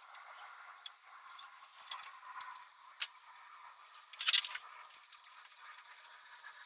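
Metal tools and parts being handled: scattered clinks and rattles, one louder clank about four seconds in, then a fast run of small clicks.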